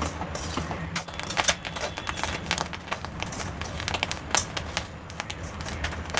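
Washed black sesame seeds crackling and popping irregularly as they dry-roast in a pan, a sign that the water is being driven off and the seeds are roasting. A steady low hum runs underneath.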